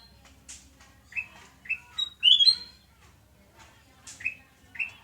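Kutilang emas bulbul singing: short, bright whistled phrases of a few notes, repeated several times, the fullest phrase about halfway through.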